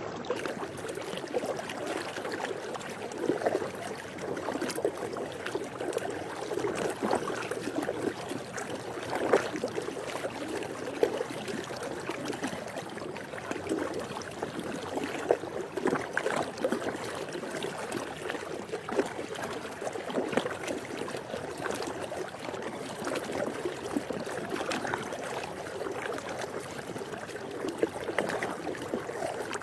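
Swimming-pool water lapping and sloshing continuously, with many small irregular splashes.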